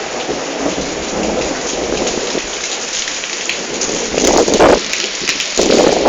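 Heavy rain falling steadily in a thunderstorm, with louder bursts of sound about four seconds in and again near the end.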